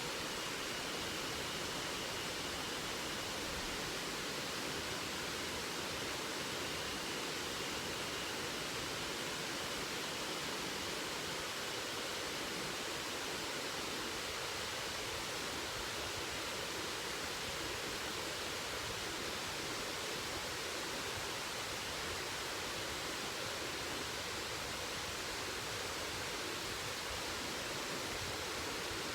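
Waterfall pouring steadily, an even rushing of water with no change.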